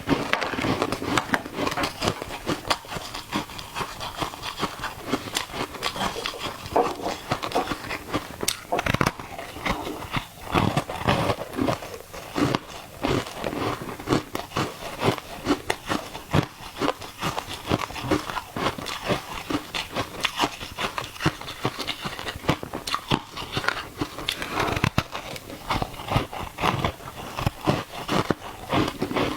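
Ice being bitten and chewed: a steady run of crisp crunches, many a second.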